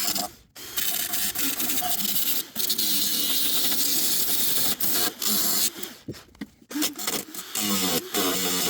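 MIG welder arcing on the car's sill steel: a steady crackling sizzle in runs of several seconds, broken by brief pauses, then a few shorter bursts near the end.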